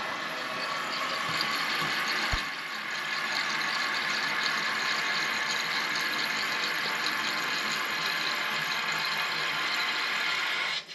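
Toilet fill valve running with the water back on, a steady hiss of water refilling the tank, with a sharp click about two seconds in.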